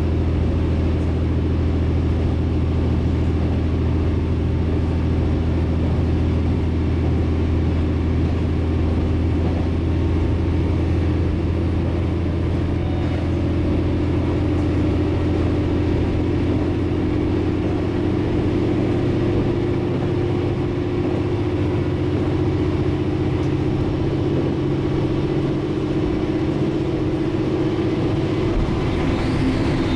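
Inside a diesel railcar on the move: the engine's low steady drone mixed with the rolling noise of wheels on rail. About halfway through, the deepest part of the drone eases off and the rolling noise takes over.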